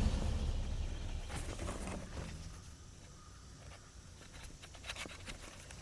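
Faint footsteps and gear handling beside a vehicle: a few scattered light clicks and rustles over a low rumble that fades over the first couple of seconds.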